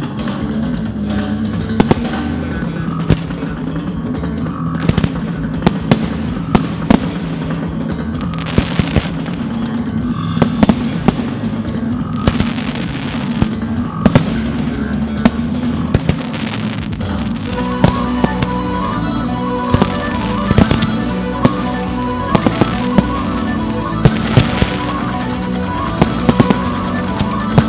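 Fireworks shells bursting with sharp bangs at irregular intervals, coming more often in the second half, over the display's accompanying music.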